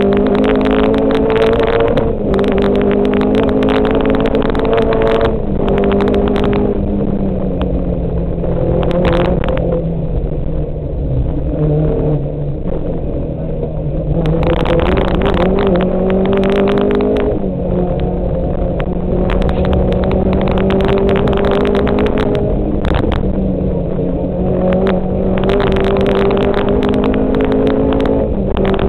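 Volkswagen Golf 2 GTI 16V rally car's 1.8-litre 16-valve four-cylinder engine, heard from inside the cabin at speed. The revs climb, drop at each gear change and climb again, and ease off for a bend near the middle before it pulls hard again.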